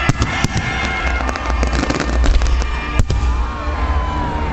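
Aerial fireworks display: shells bursting in a rapid run of bangs and crackles, with one loud bang about three seconds in and a falling tone near the end.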